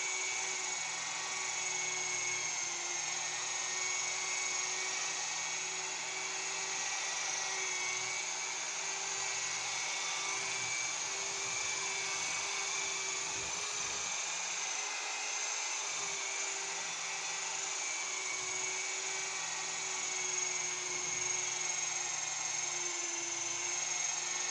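Variable-speed rotary buffer running steadily at its low setting of about 1,000 RPM, its wool pad working buffing compound into sanded clear coat.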